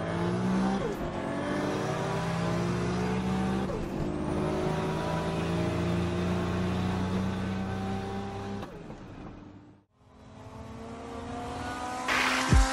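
Turbocharged Toyota Supra 2JZ inline-six at full throttle in a roll race, heard from inside the cabin, its pitch rising steadily through a long pull. It fades out about nine seconds in, and another engine starts building in the last couple of seconds.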